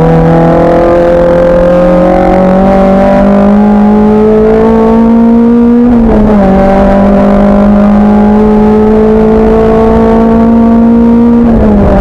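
Race car engine pulling hard under acceleration, its pitch climbing slowly and dropping sharply at two upshifts, about halfway through and near the end.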